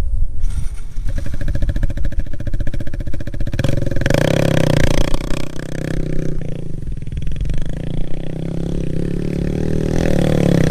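Kawasaki Z125 Pro's single-cylinder engine running with an even firing beat, then revved and running louder from about four seconds in.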